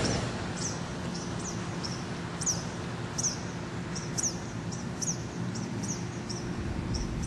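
Small birds chirping over and over, short high falling chirps about two or three a second, over a steady low hum.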